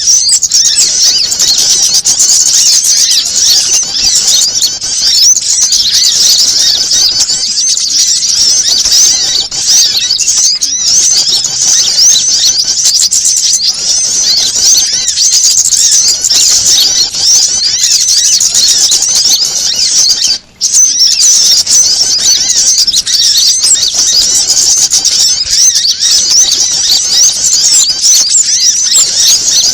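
Small-bird lure recording: a dense, frantic chorus of high, rapid chirps and trills layered together, mixing prinia (prenjak), female sogon, kamande and panicked sunbird calls. One brief break about twenty seconds in.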